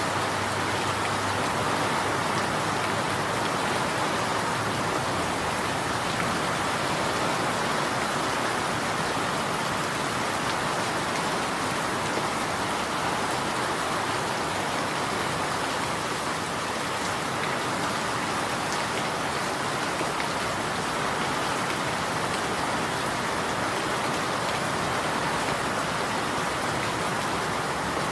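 Steady rain falling on surfaces, an even, unbroken hiss with no thunder.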